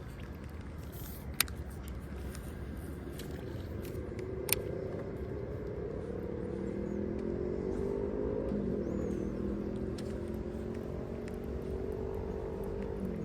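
A boat motor running, its pitch gliding up and down as it speeds up and eases off, growing louder toward the middle. Two sharp clicks stand out, about a second and a half in and again at about four and a half seconds.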